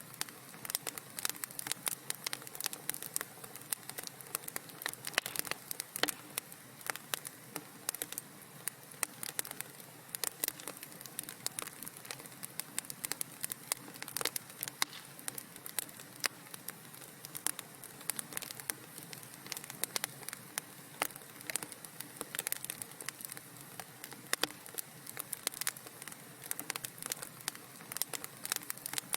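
Wood fire crackling in a fireplace, with frequent irregular pops and snaps over a steady low hiss.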